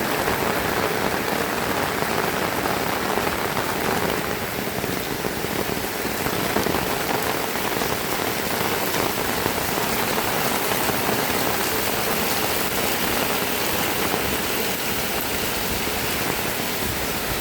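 Heavy rain falling steadily, an even hiss of drops striking the ground.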